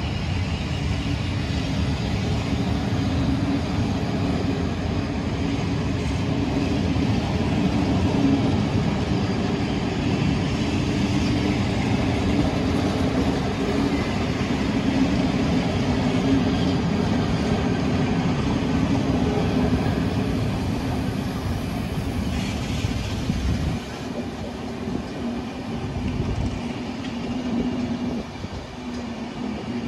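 Passenger coaches of a departing MÁV InterCity rolling slowly past on the station tracks: steady wheel-on-rail running noise, dropping a little in level near the end.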